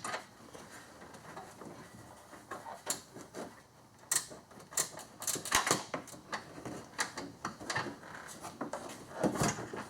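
Irregular clicking and knocking of an 8mm socket and ratchet working a bolt loose in the engine bay, with tool and plastic-trim knocks in bursts about four to six seconds in and again near the end.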